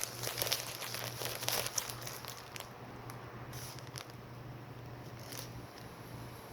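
Crinkling, crackling handling noise for about the first two seconds, then only a steady low hum.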